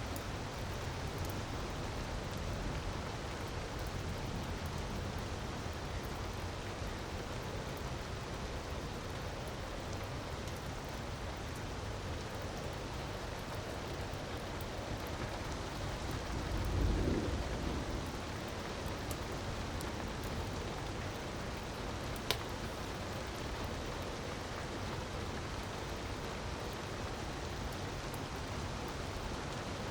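Steady rushing water of a waterfall mixed with a crackling wood fire: faint scattered crackles and one sharp pop about two-thirds of the way through. A brief low rumble swells and fades a little past halfway.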